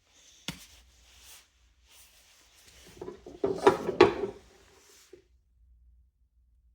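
Handling noises on a work surface: a sharp click about half a second in, then a run of knocks and rattles with two loud clicks around the middle, dying away after about five seconds.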